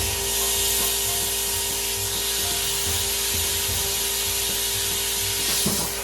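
Compressed air hissing steadily out of an open water line as the shop's plumbing is blown out for winter, with a steady hum underneath. The hiss cuts off suddenly at the end.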